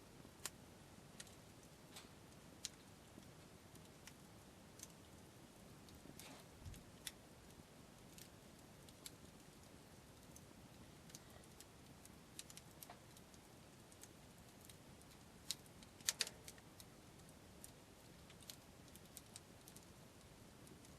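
Faint wood campfire crackling: scattered sharp pops and ticks at an irregular pace over a low hiss, with a louder burst of pops about two-thirds of the way through.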